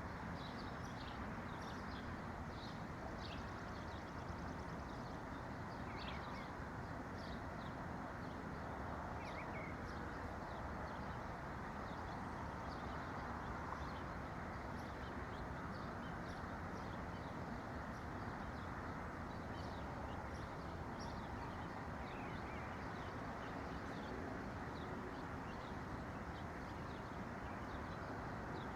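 Small songbirds chirping, many short high chirps in quick succession, over a steady low background rush.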